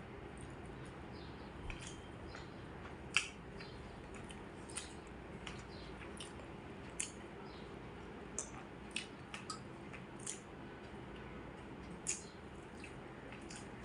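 Close-up eating sounds of a person eating rice and curry: soft wet chewing and lip smacks, with a dozen or so irregular small clicks over a steady low background hum.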